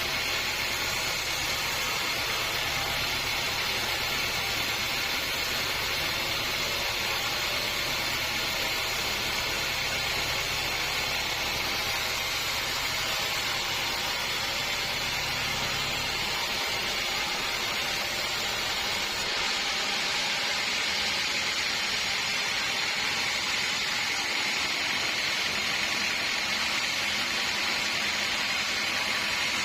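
Sawmill saw running steadily through a log, a continuous mechanical noise with a faint high whine. A low hum drops away a little over halfway through.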